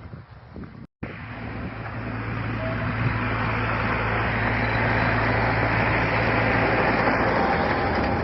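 A car engine running close to the microphone, growing louder over a few seconds after a cut about a second in and then holding steady with a low hum.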